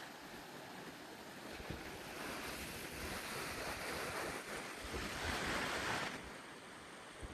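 Rushing wind noise with low buffeting rumbles on the microphone, swelling about two seconds in and dropping back near the end.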